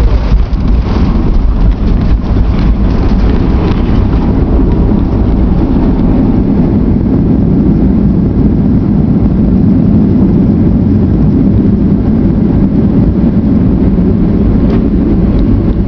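Airliner touching down and rolling out on the runway, heard from inside the cabin: a loud, steady low rumble, with a scatter of knocks and rattles in the first few seconds as the wheels meet the ground.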